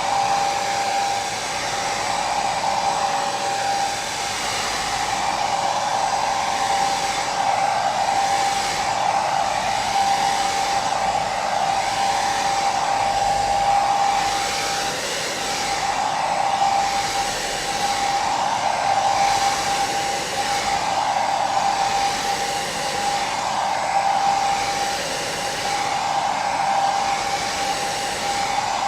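Hair dryer running steadily: a constant rush of air with a steady whine, swelling and easing slightly every couple of seconds.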